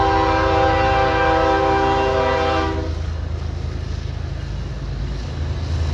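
Union Pacific diesel locomotive's air horn sounding one long, steady chord for about three seconds, then cutting off. The low, steady rumble of the locomotives' diesel engines continues underneath and swells again near the end.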